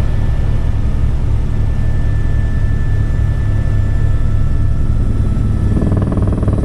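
Helicopter running steadily: a deep, constant hum with a rapid rhythmic beat from the rotor, and a fuller, louder beat coming in near the end.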